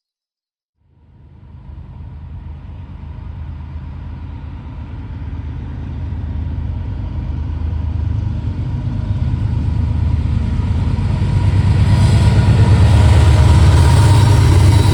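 Diesel locomotive-hauled train approaching: a low engine rumble that starts about a second in and grows steadily louder, with a thin steady tone above it.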